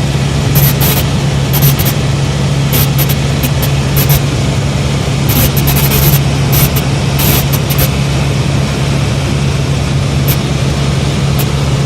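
Helicopter in flight, heard from inside the cabin: a loud, steady drone of engine and rotors with a constant low hum.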